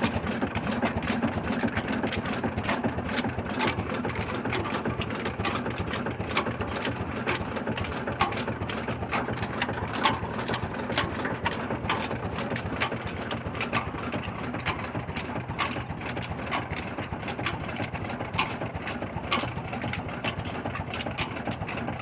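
Old black Ruston Hornsby-type stationary diesel engine running steadily, with many sharp mechanical ticks over its continuous running noise.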